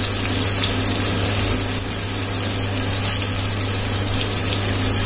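Oil sizzling steadily in an aluminium kadai as dried red chillies, green chillies, onion and curry leaves fry, with a steady low hum underneath.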